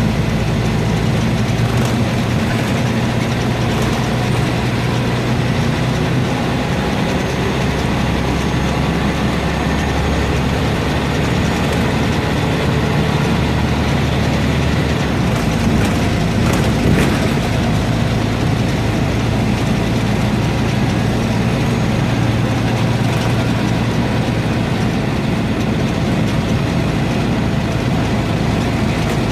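Scania N230UB single-deck bus's diesel engine running steadily on the move, with rattles and road noise. The low engine note changes about halfway through.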